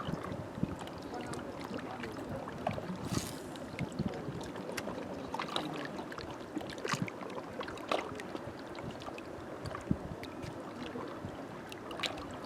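Small waves of Green Bay lapping against the shore, with irregular little splashes and gurgles.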